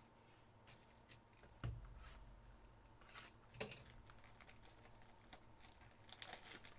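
Near silence with a few faint clicks and a soft thump from trading cards being handled and set down.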